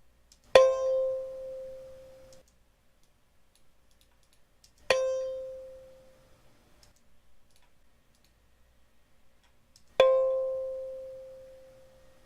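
Kalimba key (metal tine) plucked three times on the same high note, each note ringing out and fading; the first stops abruptly, the last rings longest. It is a sustain comparison between the original key and a 0.03 mm thicker replacement key, the thicker key ringing much longer.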